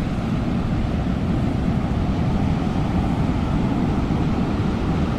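Wind buffeting the microphone over breaking sea surf: a steady, low, fluttering noise with no separate events.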